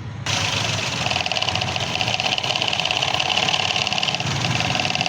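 Toyota Vitz petrol engine idling with a steady, fast, even ticking. The engine is misfiring because one ignition coil is not firing.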